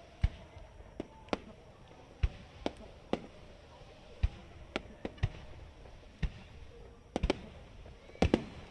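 Aerial fireworks shells bursting: about a dozen sharp bangs at irregular intervals, some deep and some thin and cracking, with a quick cluster near the end.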